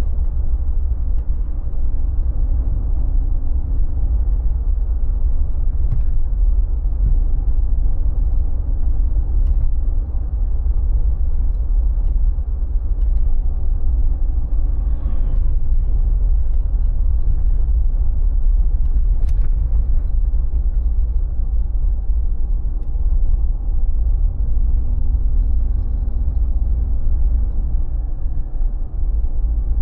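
Mercedes G36 AMG with its 3.6-litre straight-six being driven: a steady low engine and road rumble, with a faint engine hum that comes and goes.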